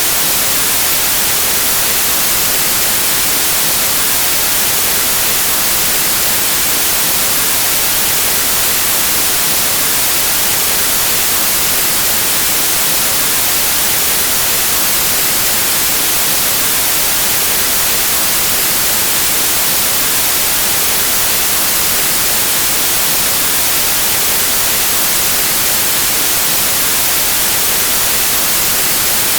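Pure white noise: a steady, unchanging static hiss, strongest in the highs.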